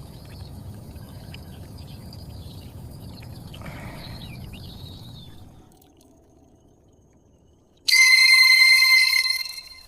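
Small birds chirping over a low rumbling background. About eight seconds in, a loud steady ringing tone with overtones starts suddenly, lasts about two seconds, then dies away.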